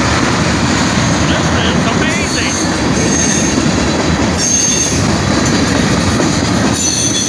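Freight train of tank cars and covered hoppers rolling past close by: a loud, steady rumble and clatter of steel wheels on rail, with a few brief high-pitched wheel squeals.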